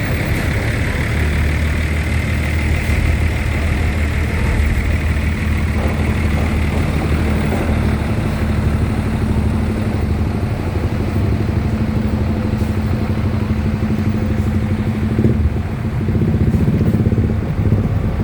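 Heavy vehicle engine running with a steady low drone.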